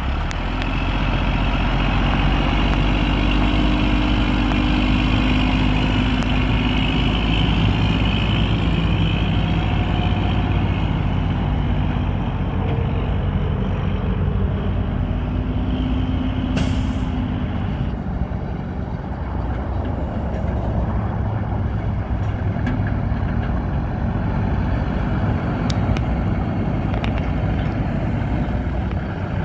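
A 1993 International boom truck's engine running steadily, its pitch shifting a little over time. There is a brief hiss of air about two-thirds of the way in.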